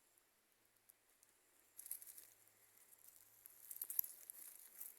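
Faint rustling and crackling of leaves and forest litter, in two short stretches, about two seconds in and again through the second half.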